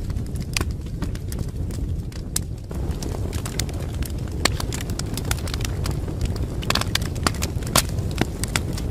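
Wood fire crackling: a steady low rumble of flames under frequent sharp pops and snaps, which come thicker in the second half.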